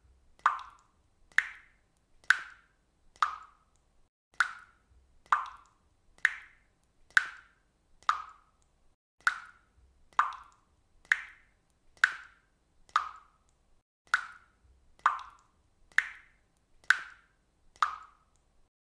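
Water dripping from a faucet: single drops falling at a steady pace of about one a second, each a short, slightly pitched plop.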